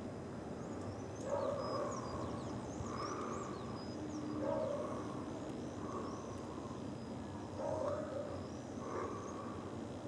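Birds calling outdoors: a short call repeats about every second and a half, with high thin chirps from smaller birds between, over a steady low background rumble.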